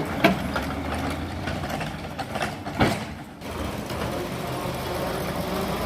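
Excavator's heavy diesel engine running steadily, with a few sharp knocks, the loudest just under three seconds in.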